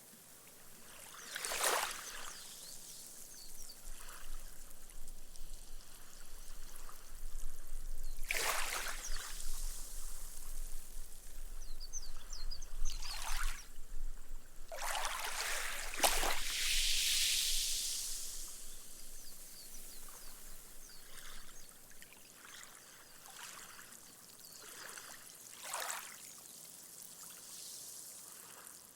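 Small, gentle waves washing up onto a sandy beach, each wash fizzing as the water soaks into the sand and the foam dies away. About five separate washes, the longest and loudest about halfway through.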